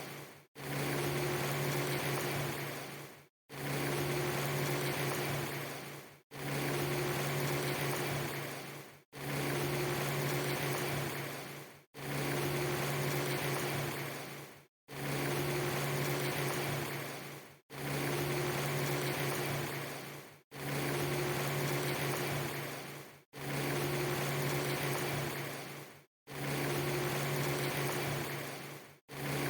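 A steady hiss over a low mechanical-sounding hum, played as a very short loop: about every three seconds it fades, drops out to silence for an instant and starts again, ten times in a row.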